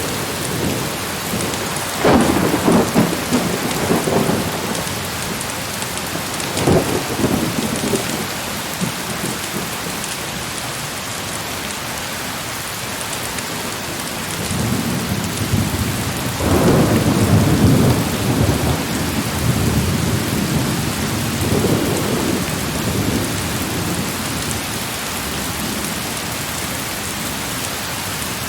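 Heavy steady rain with rolls of thunder: a rumble about two seconds in, a shorter one a few seconds later, and a longer rolling rumble through the middle of the stretch.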